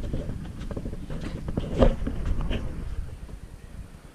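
Footsteps and scattered knocks, with one louder thump just under two seconds in, over a low rumble of handling or wind noise on the camera microphone that fades out about three seconds in.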